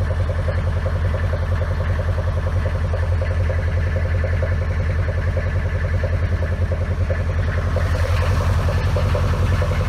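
LTZ T-40AM tractor's two-cylinder air-cooled diesel idling steadily with an even, rapid diesel knock, running shortly after a cold start at −30 °C.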